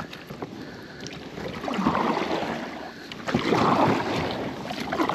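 Kayak paddle strokes in shallow water: a swishing splash about every second and a half.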